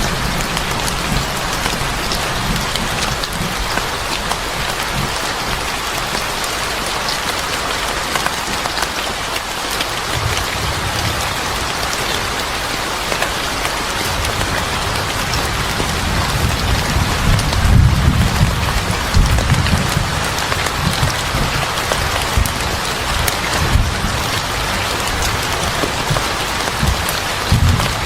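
Steady heavy rain falling and pattering on surfaces, with low rumbles of thunder swelling in the second half, loudest a little past the middle.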